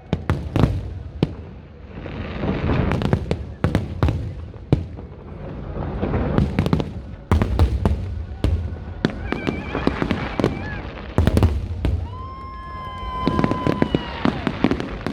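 Fireworks display: repeated sharp bangs and crackles over a rolling rumble of bursts. About twelve seconds in, a steady whistle holds for about two seconds, then falls away.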